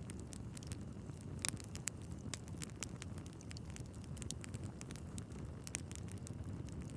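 Wood fire crackling in a fireplace: a steady low rumble of the flames with many scattered sharp pops and snaps from the burning logs, one of the loudest about a second and a half in.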